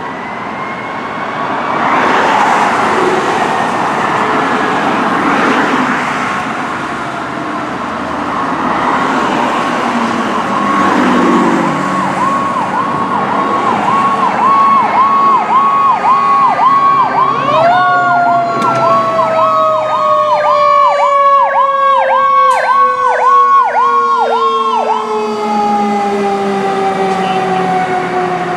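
Sirens on two 2015 Pierce Arrow XT fire apparatus responding. One siren holds a steady tone and then pulses rapidly for a long stretch. A second siren rises sharply about two-thirds of the way in and then slowly falls in pitch.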